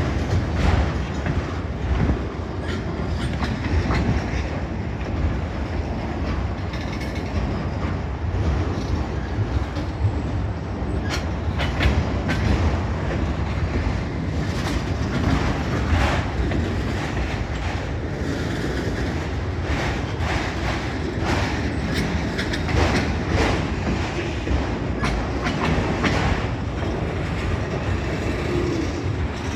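Long freight train's cars rolling past at close range, steel wheels clicking over rail joints in a steady clickety-clack, with wind rumbling on the microphone.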